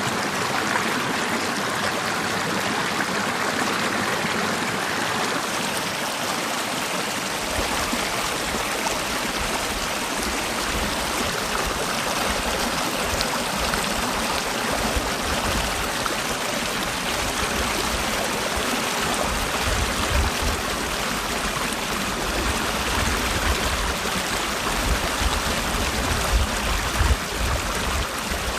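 Mountain valley stream, water rushing in an even, steady flow. A low rumble joins about a quarter of the way in and grows stronger near the end.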